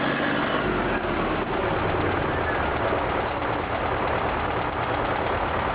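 A tractor's diesel engine running steadily, low and heavy.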